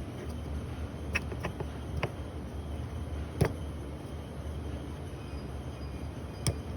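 A few light clicks and taps from handling the plastic oil filter cap and paper cartridge filter, the loudest about halfway through, over a steady low hum.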